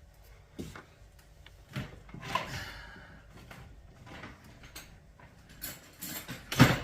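Handling noises from working on a small cordless chainsaw's chain-adjustment parts: scattered clicks and knocks, a short scrape about two and a half seconds in, and a cluster of knocks near the end, the loudest just before it ends.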